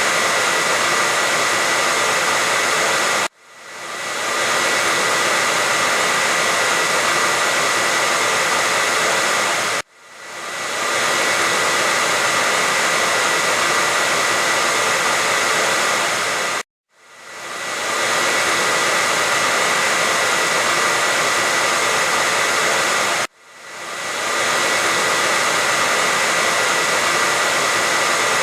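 Hair dryer blowing with a steady rush of air and a high whine. It cuts out abruptly four times, evenly spaced, and swells back up over about a second each time.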